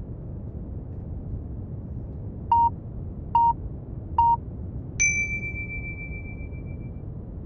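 Three short beeps about a second apart, then one higher, longer tone that rings out for about two seconds: a countdown signal marking the start of a Pomodoro study timer. Steady brown noise runs underneath.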